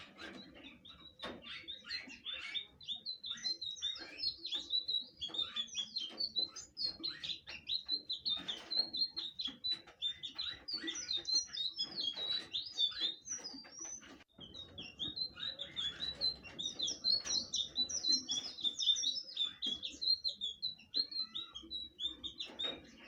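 Blue flycatcher (sikatan biru) singing in a long run of rapid, high, twittering chirps and trills, with a brief pause about fourteen seconds in before it resumes.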